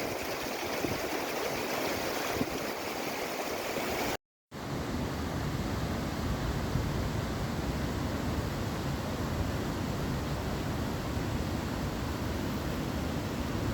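River water rushing steadily. About four seconds in it cuts off briefly, and a steady, deeper rushing noise follows.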